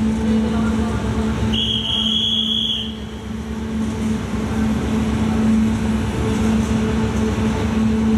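CFR double-deck passenger coaches rolling slowly through the station, with a steady rumble and hum from the running gear. About a second and a half in, a single high tone sounds for about a second.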